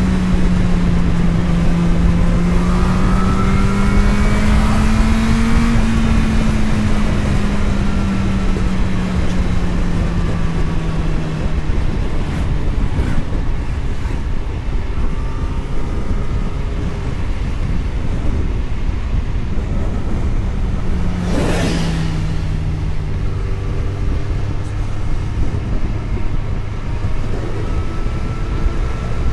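A vehicle's engine running under way, its pitch rising and falling gently with the throttle, over steady road and wind rumble. A brief sharp noise cuts through about three quarters of the way in.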